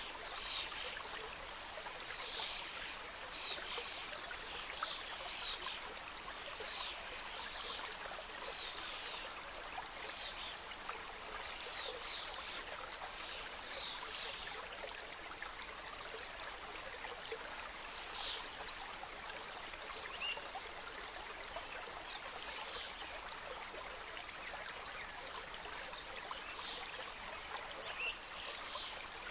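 Mountain stream flowing and cascading over stones: a steady rush of water with many small, irregular splashes and trickles.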